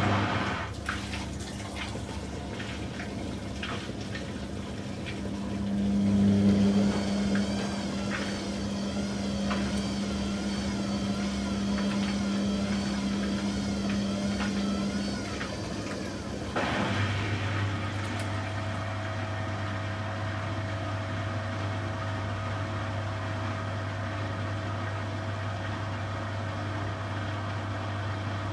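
Beko WTG620M1 washing machine running its wash cycle: a motor hum and a whine that wavers in pitch, with water sloshing. About 17 seconds in, the sound changes to a steady low hum.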